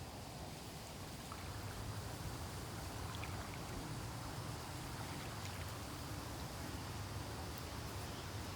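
Steady rush of flowing water with a low rumble underneath and a few faint high ticks.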